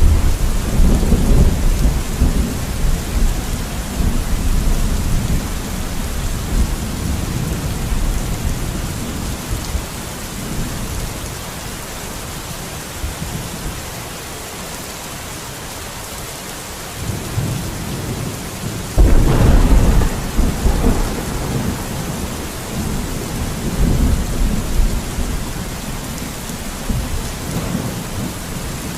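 Steady rain, with two deep rumbles that swell and die away: one at the start and a sudden, louder one about two-thirds of the way through.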